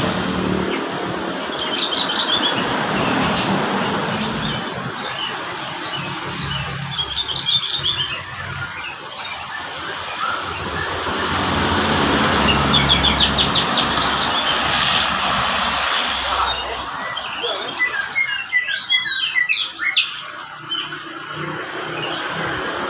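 Horsfield's bushlark (beranjangan) singing actively: a varied song of short chirps and quick trills of evenly repeated notes, with a dense run of rapid notes near the end. A steady background rumble runs underneath.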